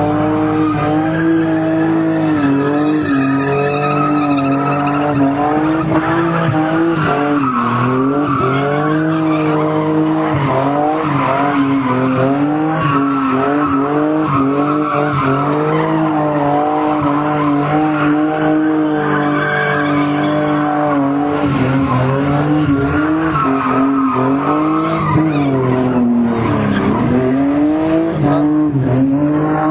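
Toyota Celica Supra with a 5M-GE straight-six held in a long skid: the tyres squeal without a break, the pitch wavering up and down, over the running engine.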